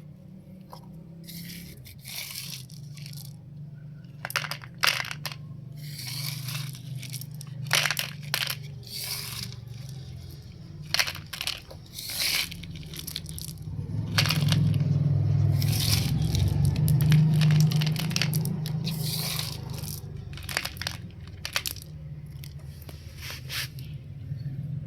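Small gravel crunching, scraping and clicking in irregular strokes as it is scooped and loaded into toy trucks, over a low steady hum that swells louder about midway through.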